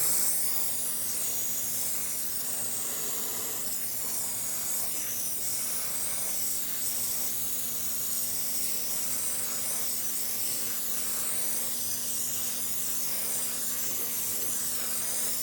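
Water spraying steadily from a shower head into a portable washing machine's tub as it fills: a continuous, even hiss.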